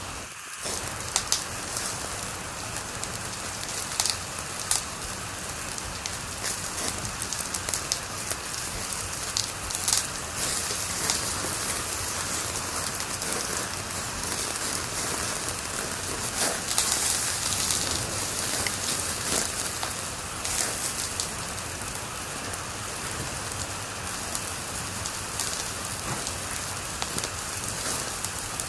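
Wood fire crackling in a fireplace: a steady hiss with frequent sharp pops and snaps, a few louder than the rest.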